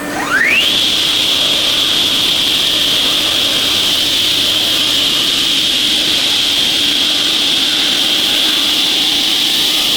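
5-axis CNC machine's spindle spinning up: a whine rises steeply in pitch in the first half-second, then holds at a steady high pitch over a loud machine hum.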